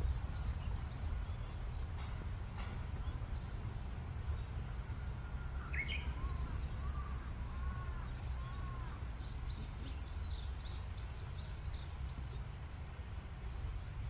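Wild birds in the trees calling: thin high chirps come and go throughout, and about halfway through a rising note leads into a quick run of short, lower, arched notes. A steady low rumble sits underneath.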